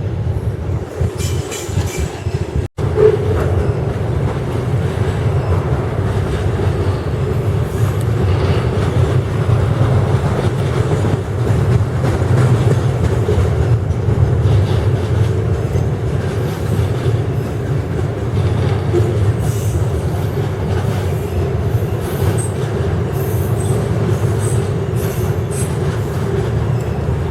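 Railway wagons rolling past, a steady loud rumble of steel wheels on the rails, with short high wheel squeals in the later part.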